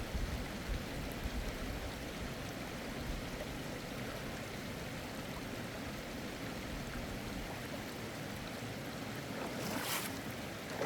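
Mountain stream water flowing steadily, with a brief rustle near the end.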